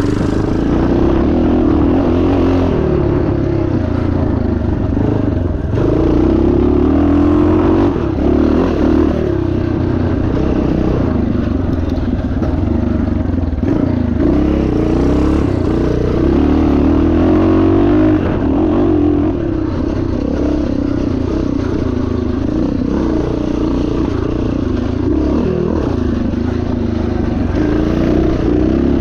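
1977 Yamaha TT500's air-cooled single-cylinder four-stroke engine running hard off-road, its revs rising and falling continuously as the throttle is worked.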